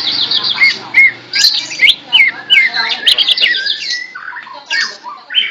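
Cucak ijo (greater green leafbird) singing a fast, varied song of sharp whistled notes and quick rising and falling slurs, delivered almost without pause.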